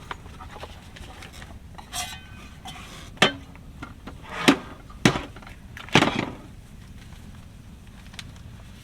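Cookware and cooking gear being handled and set down: about five separate clanks and clinks over a few seconds.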